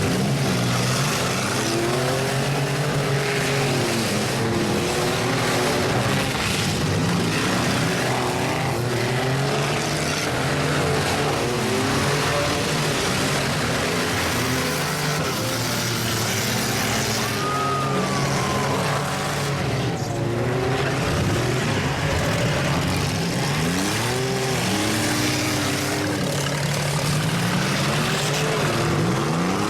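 Several demolition derby cars' engines revving up and down at once, their pitches overlapping, with occasional knocks from impacts.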